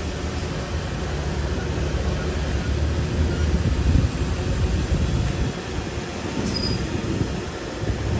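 Shantui DH-17C3 bulldozer running with a steady low engine rumble, and a brief high squeal about six and a half seconds in.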